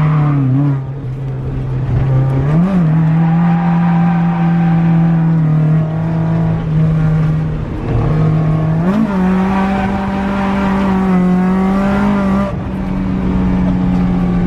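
Toyota AE86's 3S-GE BEAMS four-cylinder engine running hard at high revs under load, its note held mostly steady, with brief quick rev rises about three seconds and nine seconds in.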